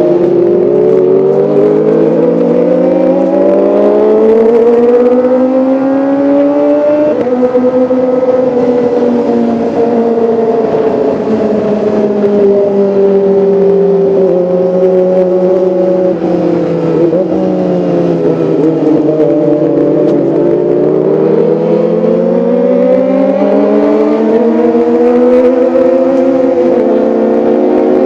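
Kawasaki ZX-25R's 250 cc inline-four engine and exhaust running at high revs. The pitch climbs for several seconds, drops sharply about seven seconds in as if on a gear change, holds, sinks around twenty seconds, then climbs again.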